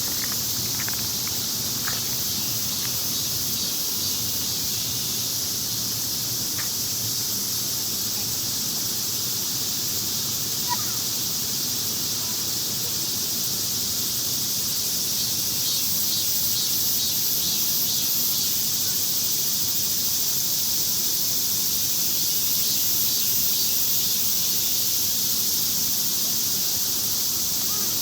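Dense chorus of cicadas: a steady, high-pitched shrill drone, with a pulsing call joining in about halfway through.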